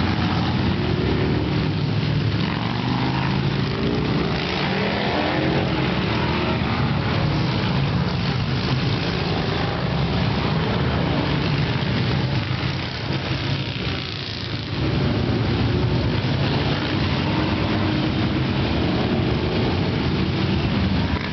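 A procession of motorcycles riding past, many engines running at once with their notes rising and falling as bikes pass, and a short lull about two-thirds through.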